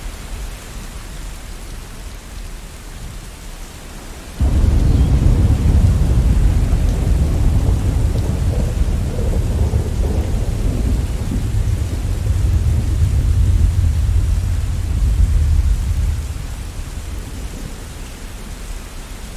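Steady rain with a clap of thunder: a deep rumble starts suddenly about four seconds in, rolls on for about twelve seconds, then fades back under the rain.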